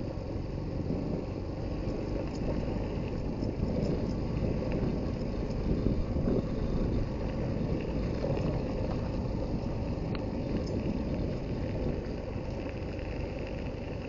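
Suzuki GD110HU motorcycle's single-cylinder four-stroke engine running as the bike rides along, a steady low rumble.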